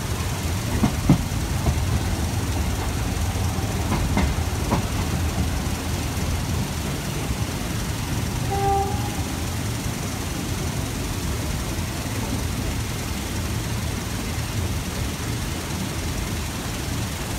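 Steady rumble of a passenger train running, heard from inside the carriage, with a few knocks of the wheels in the first five seconds and a short pitched tone about nine seconds in.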